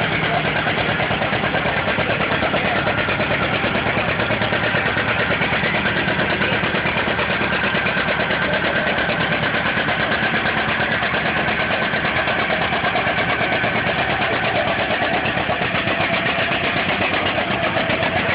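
Tractor-pull tractor's engine running loud and steady, its pitch creeping up slightly near the end.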